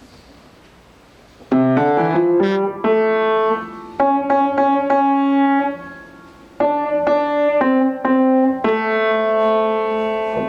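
Keyboard music in a piano sound: a melody of held notes in three phrases, starting about one and a half seconds in.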